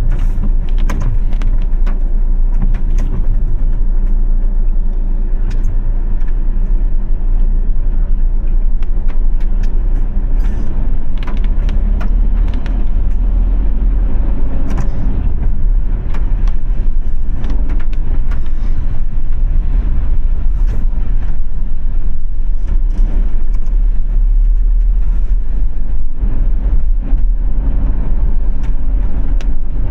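A car driving in the rain: a steady low rumble of engine and road, with scattered taps of raindrops on the car throughout.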